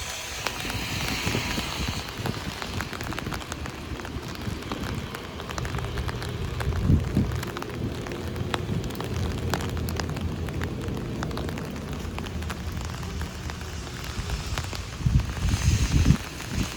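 Heavy rain hitting an umbrella: a dense, steady patter of drops over a low rumble, with a louder low thump about seven seconds in and a few more near the end.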